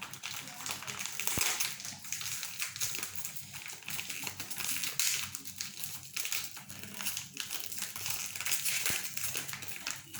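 Close-up eating sounds: noodle soup being slurped and chewed in an irregular run of wet, crackly mouth noises, with two sharp clicks, one about a second and a half in and one near the end.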